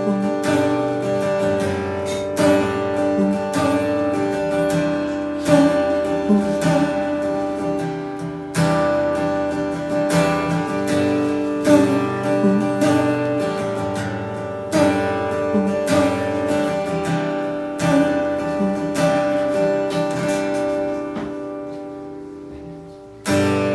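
Acoustic guitar strumming chords at a slow, even pace with the strings ringing between strokes, growing quieter near the end. An instrumental passage without singing.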